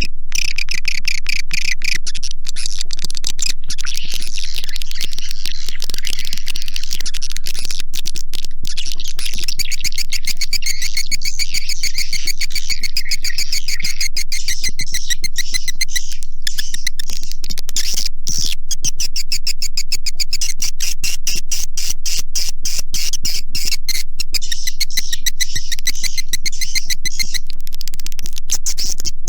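Recorded swiftlet calls played as a swiftlet-house lure sound: dense, rapid twittering chirps that run on without a break at an even loudness, over a steady low hum.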